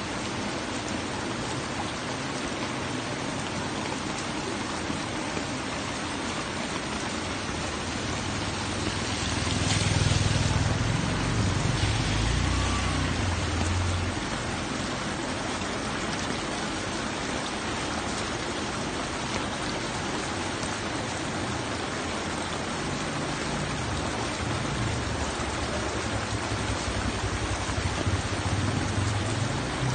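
Steady rain falling, an even hiss throughout. About ten seconds in, a low rumble swells for a few seconds and fades, with a smaller swell near the end.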